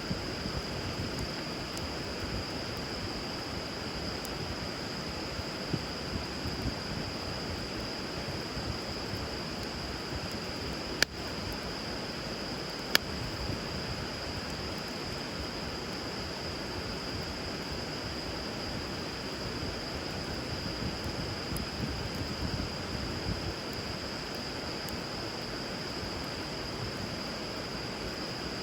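Bonfire burning on a river: a steady rush of flowing water with a few sharp pops and crackles of burning wood, the two loudest about eleven and thirteen seconds in. A steady high-pitched note sits above it.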